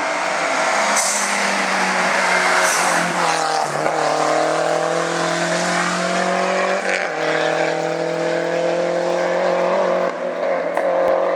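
Hillclimb race car's engine at full throttle, its pitch climbing through the gears with quick upshifts about four and seven seconds in.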